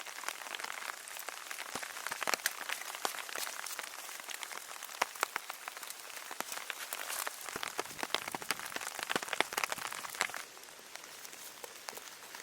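Rain falling, with many sharp separate drops striking a surface over a steady hiss; the drop hits thin out and get quieter about ten seconds in.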